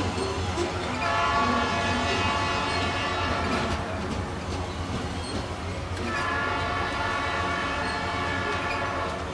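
Freight train's diesel locomotive horn sounding two long blasts, the first starting about a second in and lasting nearly three seconds, the second starting about six seconds in and still going at the end, over the steady low rumble of the locomotive.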